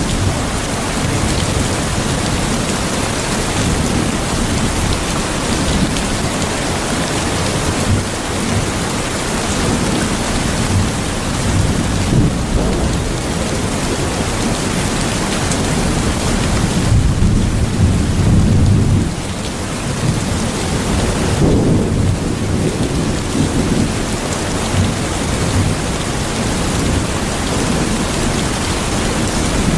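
Steady rain falling, with low rolls of thunder rumbling twice a little past the middle.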